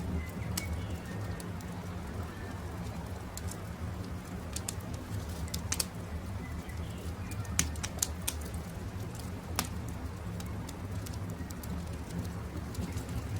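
Campfire crackling: a steady low rumble of burning wood with scattered sharp pops, a few of them louder about halfway through. Birds call faintly in the background.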